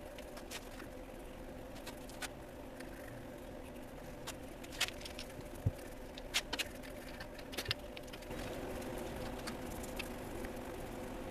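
Scattered light clicks and taps at irregular intervals, a few sharper ones near the middle, over a steady electrical hum.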